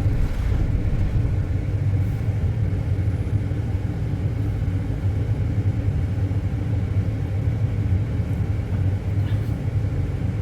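Steady low rumble of a moving road vehicle, with no distinct events.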